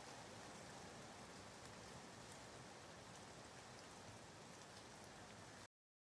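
Faint, steady rain ambience: an even hiss of falling rain with the light patter of individual drops. It cuts off abruptly into silence near the end.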